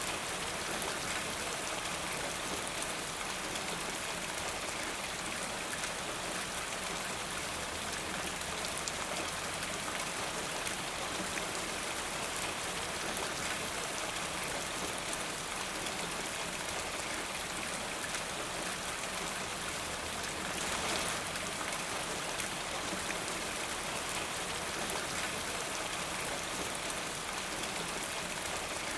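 Steady rainfall, a continuous hiss of many drops with fine pattering, swelling slightly about two-thirds of the way through.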